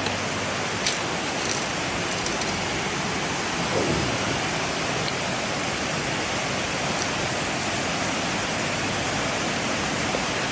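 Waterfall on a creek: a steady, even rush of falling water.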